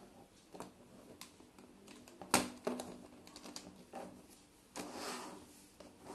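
Plastic building-block wheels and axle pieces clicking as they are pressed onto a block-built toy truck: scattered light clicks, a sharper snap about two seconds in, and a brief rustle of plastic pieces near the end.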